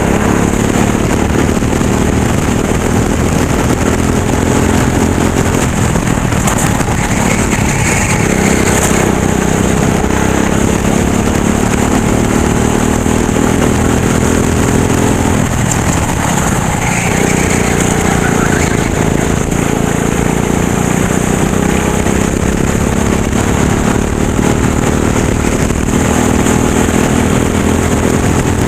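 Racing kart engine running at race pace, its revs falling as it lifts for corners about six and again about sixteen seconds in, then climbing back up along the straights.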